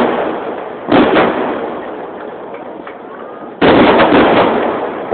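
Fireworks shells bursting: a loud bang about a second in, then another with a few quick follow-up bangs a little past halfway, each dying away slowly into a long echo. Heard through a mobile phone's microphone, dull and without high end.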